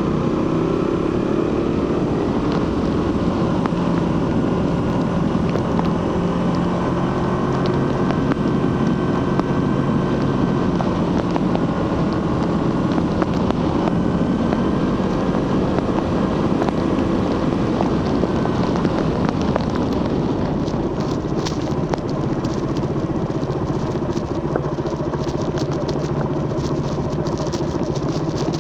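Suzuki GSX-R150's single-cylinder engine running through its stock exhaust while riding, its note holding fairly steady with small rises and falls in pitch. From about twenty seconds in, a fast crackle of fine clicks rides on top of it.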